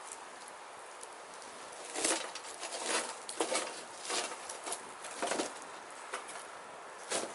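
Burning firewood crackling and popping over a steady hiss, with a cluster of sharp cracks from about two seconds in and one more near the end.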